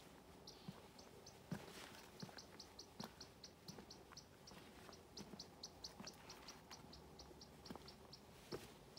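Faint, rapid series of short high chirps, all at one pitch, about five a second in runs with brief gaps, from a small bird. Soft thuds of footsteps on stone come and go beneath them, one louder about one and a half seconds in.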